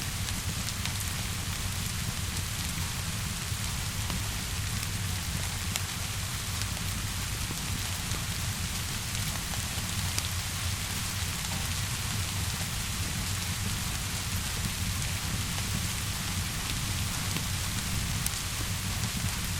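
Steady rainfall with a low rumble beneath it, mixed with sparse small crackles and pops of a wood fire.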